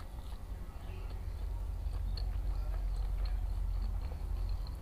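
A person chewing food close to the microphone, with many small, quick mouth clicks.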